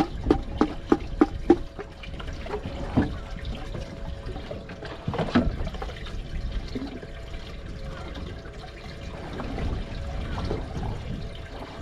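Water steadily trickling and splashing. In the first second and a half there is a quick run of about six sharp clicks or knocks, and single knocks come about three and five seconds in.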